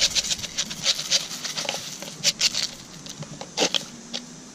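Bird seed being poured into a hanging bird feeder, the seeds pattering down in quick sharp clicks that thin out near the end.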